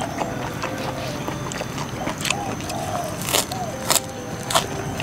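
Close-miked wet chewing of raw kenikir leaves dipped in sambal terasi, with sharp crunches and mouth clicks, several louder ones in the second half.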